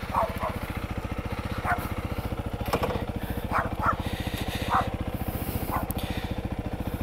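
Honda CRF300L's single-cylinder engine running steadily with a quick, even train of low firing pulses; the bike is quiet on its stock, restricted exhaust. A few short high chirps sound over it now and then.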